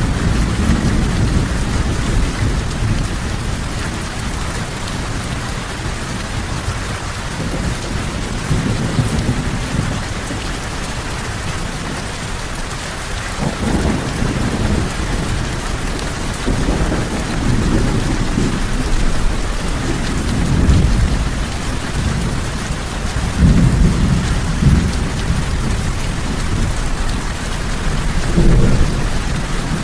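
Steady heavy rain with rolling thunder: low rumbles swell and fade several times over the rain's even hiss.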